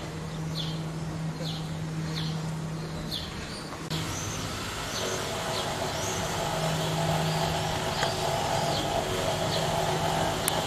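Small birds chirping over and over, short falling chirps about once a second, over a steady low hum.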